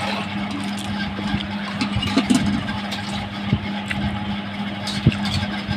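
A steady low hum over even background noise, with a few soft clicks and smacks of someone eating.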